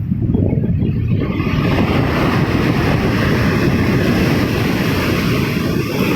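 Ocean surf on the shore: a deep, steady rumble, with the hiss of breaking and washing water swelling in about a second and a half in.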